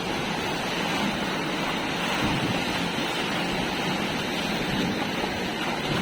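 Steady rush of river water around a raft.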